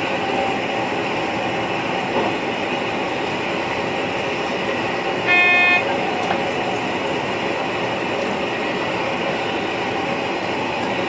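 Steady running noise of a VIRM electric train, heard from the driver's cab. About five seconds in, a single short horn-like toot of about half a second rises above it.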